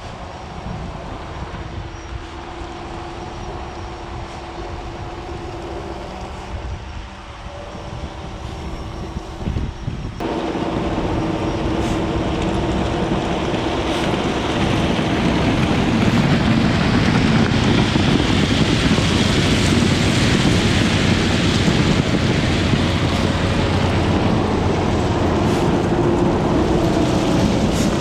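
Heavy rail machinery running with a steady engine hum; the sound changes abruptly and grows louder about ten seconds in.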